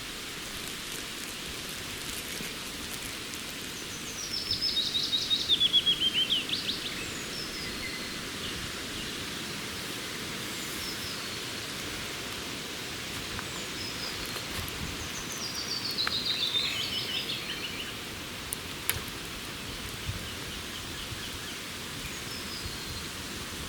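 A songbird sings a fast trill that steps down in pitch and ends with a brief upturn, twice, each phrase about two and a half seconds long, with fainter chirps between. A steady even hiss lies under it, and a couple of sharp clicks sound near the end.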